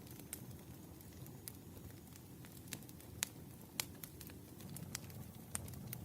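Campfire crackling: a steady low rumble of burning with irregular sharp pops of the wood, the two loudest pops about three and four seconds in.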